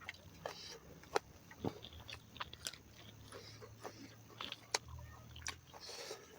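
A person chewing and biting pork, with sharp, irregular wet mouth clicks and small crunches scattered throughout. A faint low hum runs underneath.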